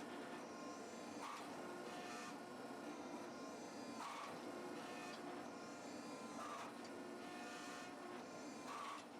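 Hydraulic forging press running while a steel bar is drawn out between drawing dies, a steady machine whir with a recurring surge every second or two as the ram strokes.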